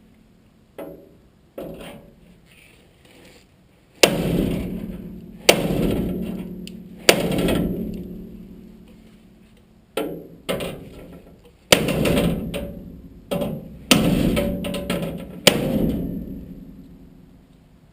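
Hammer blows on sheet steel, each strike ringing out for a second or more: a few light taps, then heavy, irregularly spaced blows from about four seconds in, typical of bending and shaping a steel repair panel.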